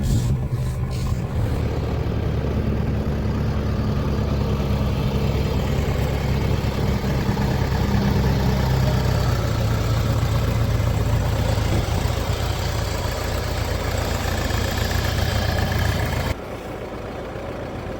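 JCB backhoe loader's diesel engine running steadily with a low drone. It drops suddenly to a quieter level near the end.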